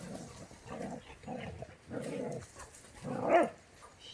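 A dog barking: about five short, rough barks, the loudest about three seconds in.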